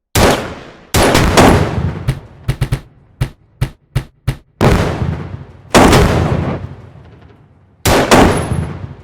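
Gunshot sound effects: a string of about fifteen sharp shots at irregular spacing, some single shots trailing off in long echoing tails and a quicker run of separate shots in the middle.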